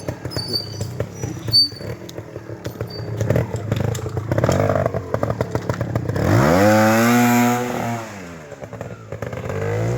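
Trials motorcycle engine picking its way over obstacles at low, uneven revs, with sharp knocks and clicks from the bike and tyres on the terrain, one loud knock about a second and a half in. About six seconds in the revs rise in a long blip, hold for over a second, then drop back.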